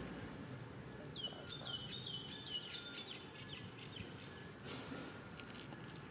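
A bird chirping: a quick run of about eight high chirps, each sweeping down and then holding briefly, starting about a second in and lasting about two seconds, over a steady low background hiss.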